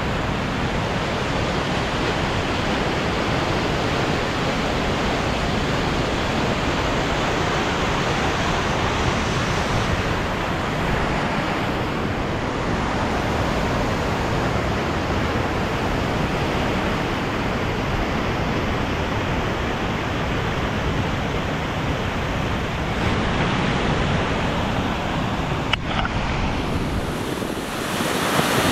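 Maligne River rushing through the canyon, a steady, even wash of white-water noise, with one brief click near the end.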